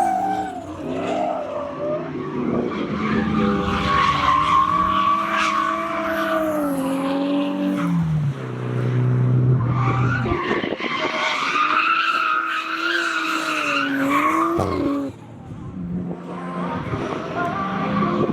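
Drift car at full lock, its engine revving up and down hard while the tyres squeal and skid through a slide. The engine note falls low for a couple of seconds about halfway through, and everything quietens briefly near the end.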